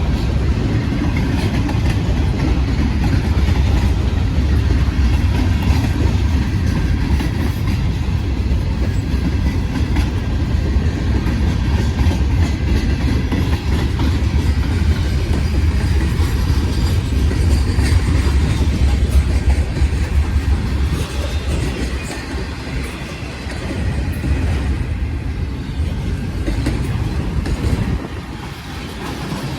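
Long mixed freight train of boxcars and autoracks rolling past, a steady heavy rumble with wheels clacking over the rail joints. The rumble eases off about twenty seconds in and drops again near the end.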